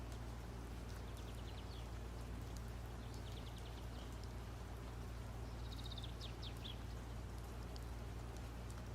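Steady low electrical hum with three short runs of quick, faint high ticks, about a second in, around three to four seconds, and around six seconds.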